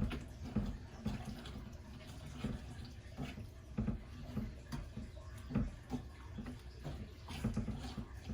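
Wet flour batter being stirred and mixed in a bowl, with soft, irregular squelching strokes.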